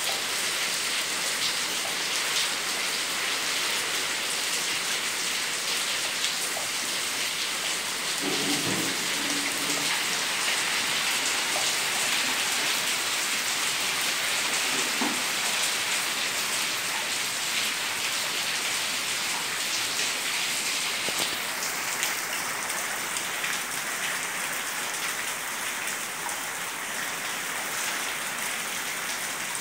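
Steady rain falling onto wet stone paving and garden foliage.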